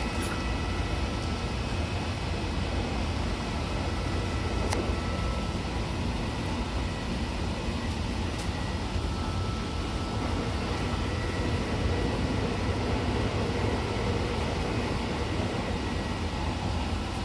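Odakyu 70000 series GSE electric train running at steady speed, heard from inside the car: a steady rumble of wheels on rail and running gear, with faint steady tones from the full-SiC VVVF traction equipment.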